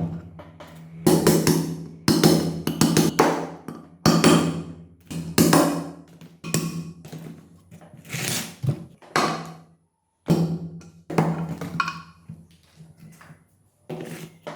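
A rapid series of knocks, taps and scrapes from tools on metal engine parts over a steady low hum; the sound cuts out briefly twice.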